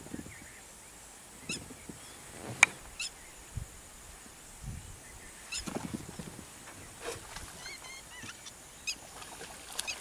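Birds giving short, scattered calls over a faint wetland background, with a few low thumps and one sharp click about two and a half seconds in.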